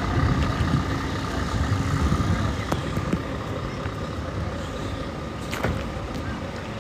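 Truck engine running, its low rumble strongest for the first two seconds or so and then easing, under a steady hum, with a few sharp clicks.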